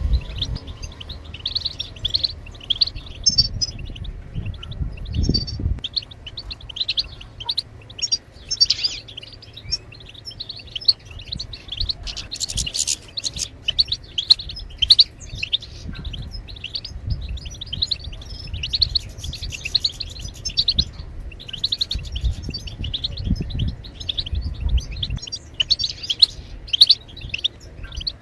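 European goldfinch twittering song: a continuous, rapid stream of high chirps and trills, the chattering song goldfinch keepers play to get their birds singing. A low rumble sits underneath at times.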